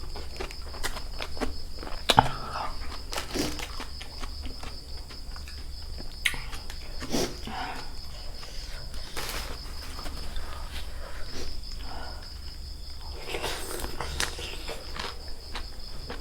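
Eating: scattered crunches and clicks of chewing, over a steady high-pitched insect trill like crickets.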